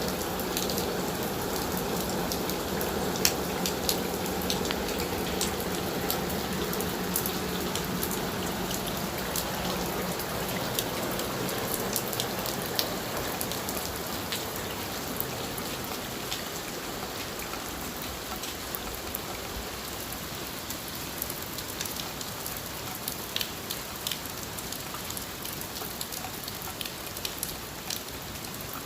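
Monsoon rain falling steadily, with many sharp ticks of single drops striking over the even hiss. It eases slightly from about halfway through.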